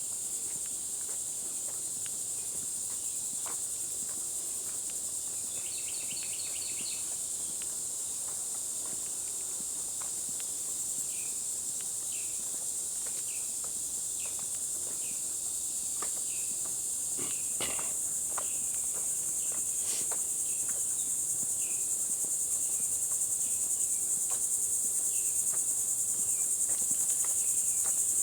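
A steady, high-pitched chorus of insects, growing a little louder toward the end. About a third of the way in, short chirps start repeating above it, and faint scattered footsteps can be heard.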